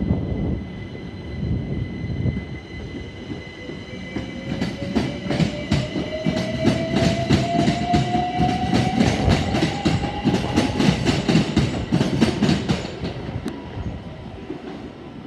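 Class 387 Electrostar electric multiple unit pulling away and accelerating. Its traction motor whine rises steadily in pitch, and a quick run of wheel clicks over rail joints builds up about four seconds in and fades near the end.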